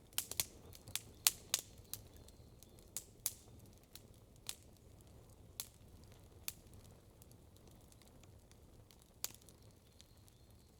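Campfire of burning wood crackling, with sharp pops clustered in the first couple of seconds, then sparser, and a single loud pop near the end.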